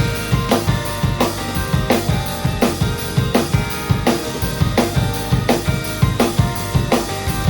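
Drum kit played along to a recorded pop-rock band track, with a steady driving beat of bass drum and snare hits over keyboards and bass.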